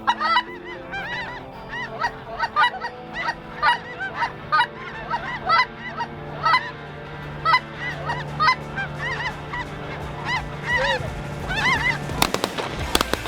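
A flock of geese honking, many overlapping calls in quick succession. Near the end several shotgun shots ring out over them, with a quiet music bed underneath.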